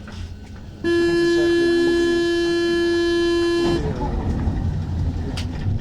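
Paris Métro door-closing warning buzzer on an MP 05 train: a loud, steady buzzing tone lasting about three seconds, starting about a second in, before the train departs. A low rumble follows it.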